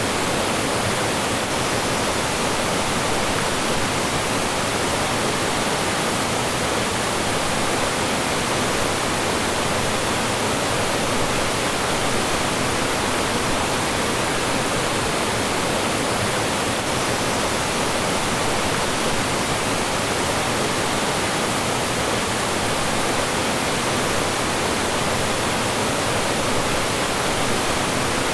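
Mountain stream rushing over rocks and small falls: a loud, steady wash of water that does not change.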